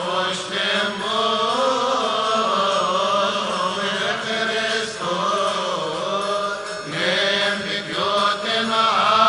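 Coptic monks' voices chanting a madih, an Arabic praise hymn, in a melodic line that bends up and down.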